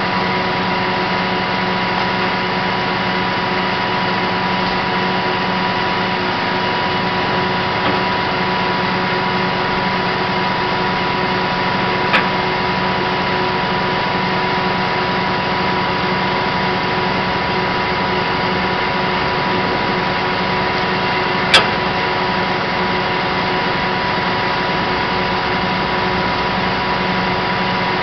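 Kenworth T270 flatbed tow truck's diesel engine running steadily at idle with a constant hum, broken by two sharp clicks, about twelve seconds in and again about twenty-one seconds in.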